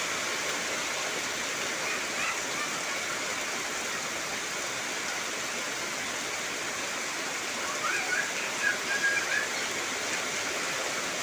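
Heavy rain falling as a steady, even hiss. A few short, wavering high-pitched calls come through about two seconds in and again around eight to nine seconds in.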